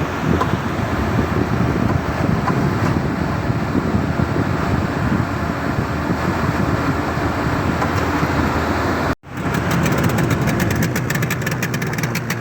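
An engine running steadily with a loud, rough low rumble. About nine seconds in the sound cuts out for an instant and comes back with a fast, even ticking beat on top.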